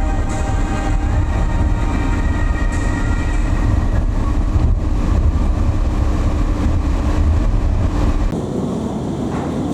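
Train running, a steady low rumble with faint whining tones above it; the low rumble drops away abruptly about eight seconds in.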